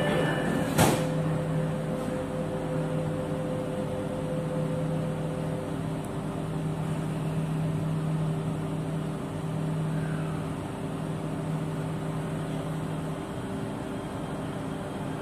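Steady electric hum and air-conditioning noise inside a Jakarta MRT train carriage standing at a station, with one sharp click about a second in.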